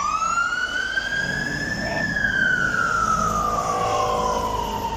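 Fire engine siren on a slow wail: the tone rises for about two seconds, falls slowly for about three, and begins to rise again near the end, over traffic rumble.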